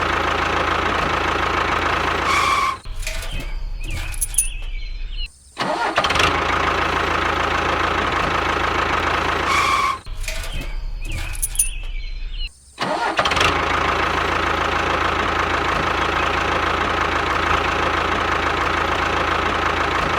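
Engine sound running steadily with short dips, its pattern repeating almost exactly every seven to eight seconds, as from a looped tractor engine recording.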